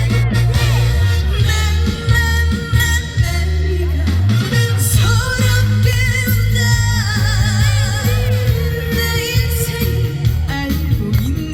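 A woman singing a trot song live over loud backing music with a steady bass line, holding long wavering notes.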